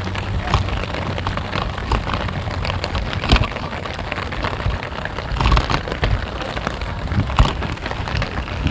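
Heavy rain falling, a dense steady patter of drops with a few louder knocks.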